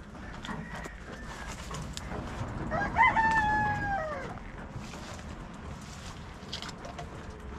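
A rooster crowing: one loud, drawn-out call about three seconds in that rises, holds and drops away at the end, with a fainter, longer call before it.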